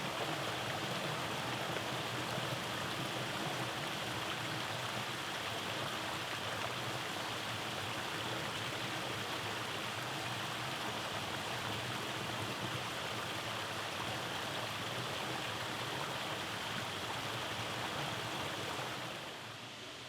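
Water of a rainforest creek flowing over small cascades: a steady, even rushing, which turns quieter and duller just before the end.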